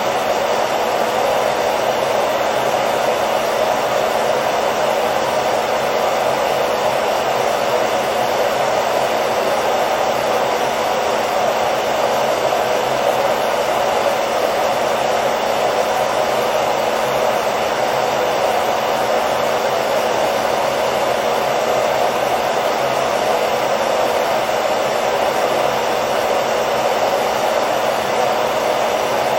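Hair dryer running steadily: a constant airy rush with a faint motor hum, unchanging throughout.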